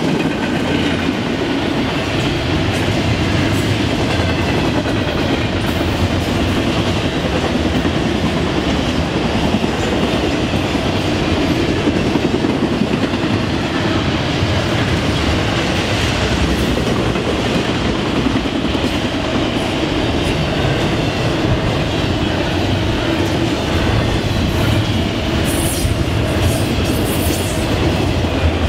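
A long intermodal freight train's cars (trailers on flatcars and containers in well cars) rolling past steadily, with a continuous rumble of wheels on rail and a regular clickety-clack over the rail joints.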